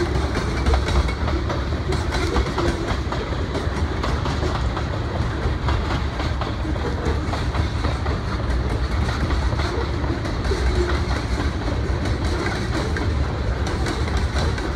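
Freight train tank cars rolling steadily past, a continuous rumble with the wheels clacking over the rail joints.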